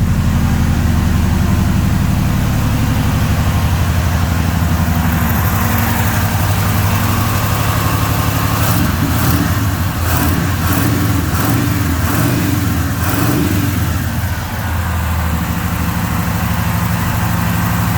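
Chevrolet 350 small-block V8 running at idle, with a steady low note that wavers and shifts for several seconds in the middle.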